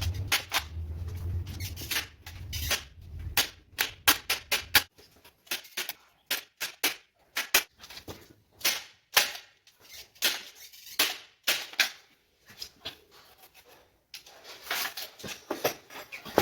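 Hammer striking nails into wooden door framing: irregular sharp knocks, some in quick runs of several blows. A low hum sounds under the first few seconds and stops about five seconds in.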